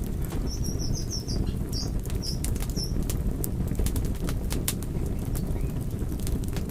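Fire crackling, with sharp pops over a steady low rumble of burning. About half a second in comes a brief run of short high chirps lasting a couple of seconds.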